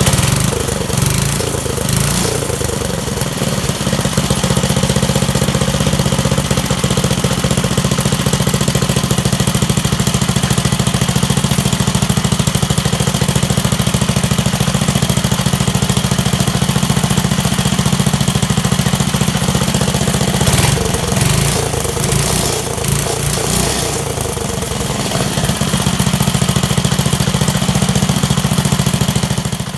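1969 Bonanza mini bike's small single-cylinder engine running steadily at idle, warmed up with its carburetor freshly tuned; its running wavers for a few seconds past the two-thirds mark, then the sound cuts off suddenly at the end.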